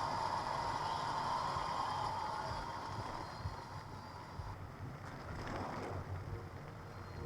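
Car driving through heavy rain: a steady rush of rain and wet-road tyre noise over a low engine and road rumble.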